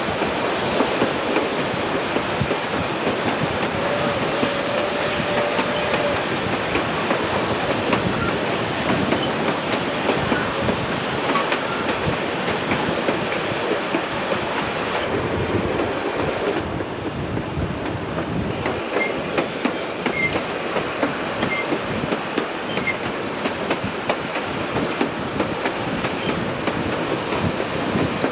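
Running noise of a train of broad-gauge passenger carriages on the move, heard from an open carriage window: a steady rumble and clatter, with wheels clicking over the rail joints. Brief high squeaks come a few times in the second half as the wheels take the curve.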